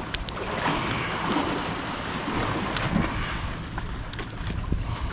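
Waves washing and wind buffeting the microphone, with a few sharp clicks, one right at the start and another about three seconds in.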